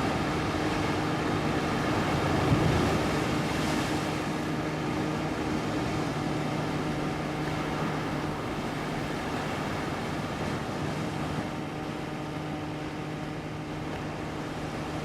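Seaside ambience: a steady wash of waves and wind, with a low steady hum held underneath and a brief swell in level about two and a half seconds in.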